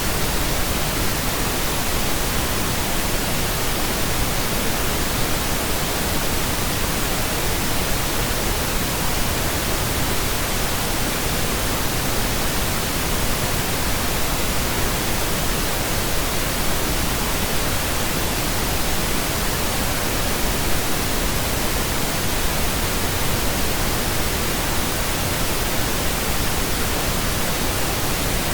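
Steady pink noise: an even, unchanging hiss spread across the whole range of pitch, with no other sound.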